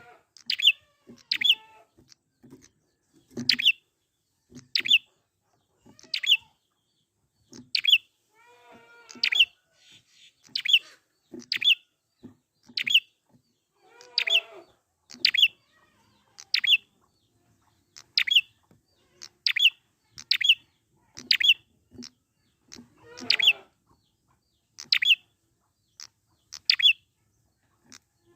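A prinia (prenjak) calling repeatedly: sharp, short, high chip notes about once every second or so. A lower, chattering call breaks in three times.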